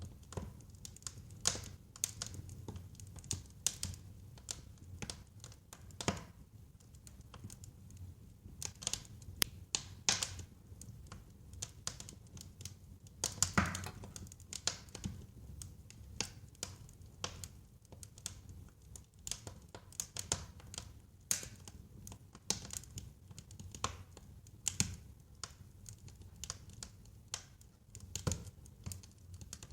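Wood fire burning in a fireplace: irregular crackles and snaps, with a few louder pops, over a low, steady rumble.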